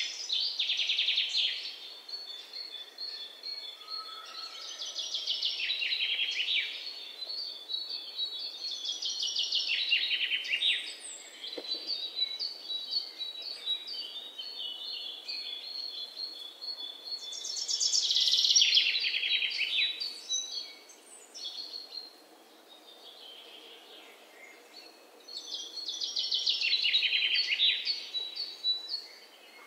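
Birds singing: fast trilled phrases that drop in pitch, recurring every several seconds, with runs of short high chirps between them.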